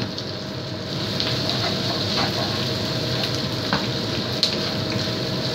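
Sliced onions and curry paste frying in oil in a wok, with a little coconut milk just added: steady sizzling, with a wooden spatula stirring and knocking lightly against the pan a few times.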